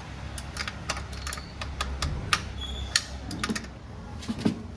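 Irregular sharp metallic clicks and clinks of a 13 mm spanner working on a motorcycle exhaust mounting bolt.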